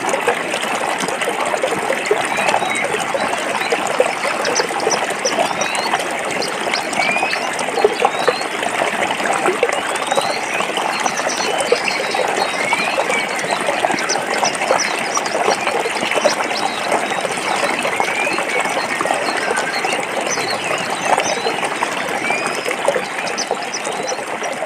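A forest stream flowing over rocks: a steady, dense rush of water, broken up by many small splashes and gurgles.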